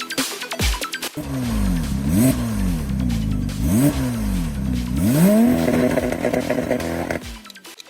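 Car engine revving: two quick blips that rise and fall back, then a climb to a high rev that is held until it cuts off about seven seconds in. Electronic music plays briefly at the start.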